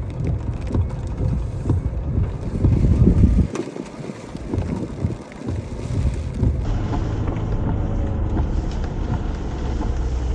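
Ford Bronco driving on a rough off-road trail: a low, uneven rumble of engine and tyres with jolts, and wind buffeting the microphone.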